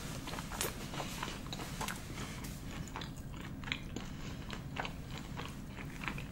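A person chewing a mouthful of food with the mouth closed, close to the microphone: irregular wet smacks and small clicks, over a steady low hum.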